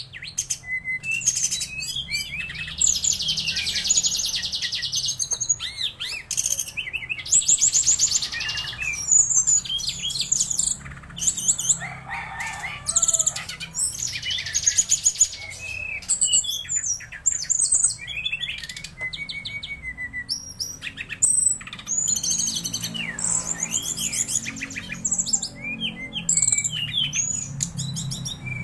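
A brown-chested jungle flycatcher (sikatan rimba dada coklat) sings without a break: a fast, varied string of chirps and whistling phrases. Dense buzzy trills come about 3 seconds in, again about 8 seconds in, and again about 14 seconds in.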